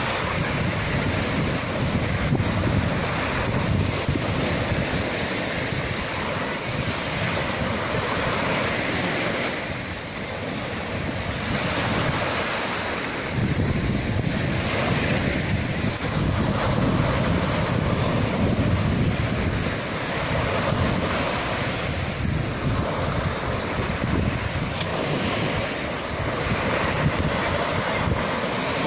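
Sea waves washing in and breaking, a continuous rushing surf that swells and eases every few seconds, with wind buffeting the microphone.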